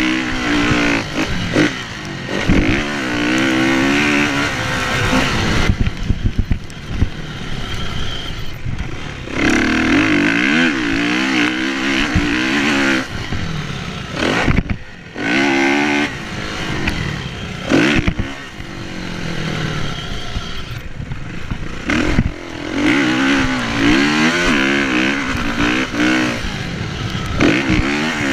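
Kawasaki KX450F's single-cylinder four-stroke motocross engine being ridden hard. It revs up in pitch again and again, with the revs dropping sharply several times as the throttle is shut, and knocks and rattles come through the bike.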